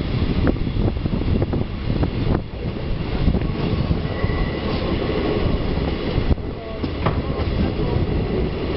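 Czech Railways class 914 diesel railcar running along the track, heard from an open window: steady wheel-and-rail running noise with sharp clicks over rail joints. A faint, brief wheel squeal comes about four seconds in, on the curve.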